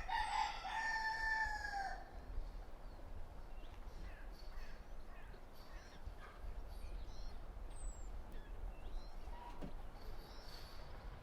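A rooster crows once at the start, a drawn-out call of about two seconds that sags slightly in pitch at the end. After it come faint, scattered high cheeps from chicks.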